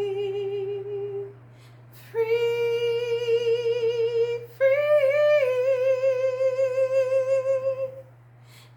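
A woman singing a cappella, holding long notes without words: one note dies away about a second in, then after a short pause she holds a long note and moves up to a higher one, held steady until near the end.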